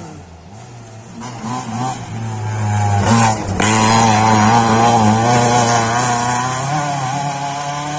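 Rally car engine revving hard as the car approaches, getting louder from about a second in. A short break in the engine note comes around three seconds in, then it runs loud and high-revving to the end.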